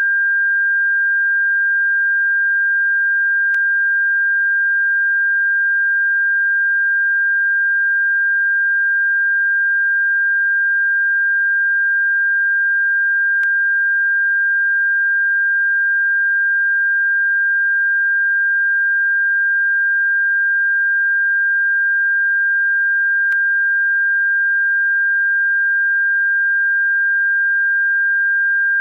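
Steady, unbroken pure tone at a fixed pitch of about 1.6 kHz, played as a bird-repellent frequency. A faint click sounds about every ten seconds.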